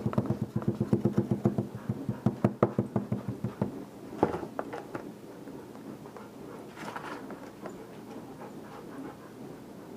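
A dowel tamping casting sand down into a sand-casting mold: fast, even knocks at about six a second that stop a little under four seconds in, followed by a few faint clicks of handling.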